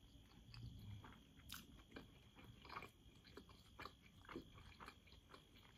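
Faint chewing of a soft steamed manti dumpling, with a string of small wet mouth clicks.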